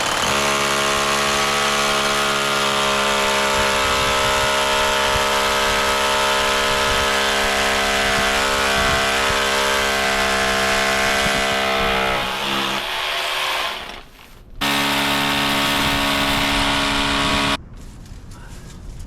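Electric drill, likely a hammer drill, boring holes into brick for a mounting plate. One long run winds down about twelve seconds in, then a second shorter run stops abruptly.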